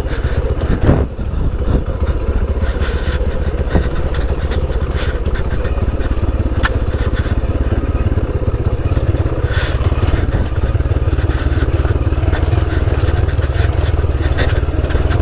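Honda C90 motorcycle's small single-cylinder four-stroke engine running steadily while riding a rough lane, with a sharp knock about a second in and a few lighter knocks later.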